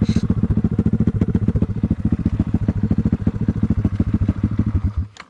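Off-road vehicle engine idling with an even, rapid pulse, then switched off about five seconds in.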